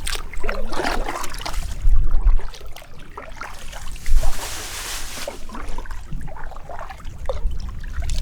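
Water splashing and trickling around an inflatable packraft as it is paddled, in uneven swishes with a stronger splash about four seconds in.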